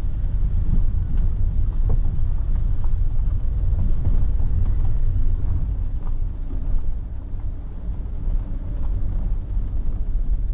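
A vehicle travelling on the road: a steady, loud low rumble with wind buffeting the microphone.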